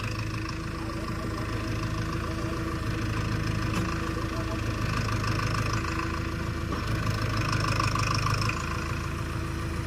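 Farmtrac 6055 CRDi tractor's common-rail diesel engine running steadily. It gets a little louder from about halfway through, then drops back shortly before the end.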